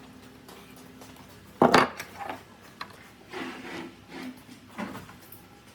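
Wood and tools being handled: one sharp knock about a second and a half in, then a few short rubbing strokes.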